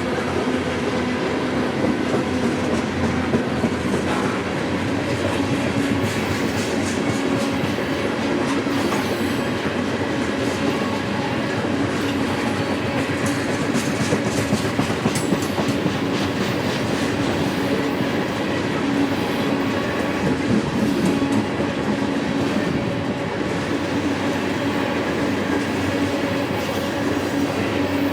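Freight train rolling past: a steady rumble of steel wheels on rail with clickety-clack over the rail joints.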